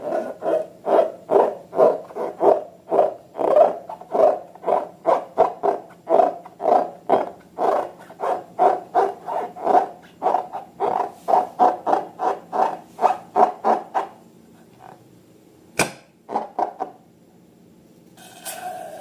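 Slime being squeezed and worked by hand, with rhythmic squelches about three a second that stop about 14 seconds in. A single sharp click comes a couple of seconds later.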